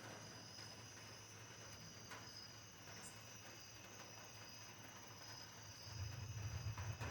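Crickets chirping steadily in a high, even trill. About six seconds in, a low rumble swells up beneath them.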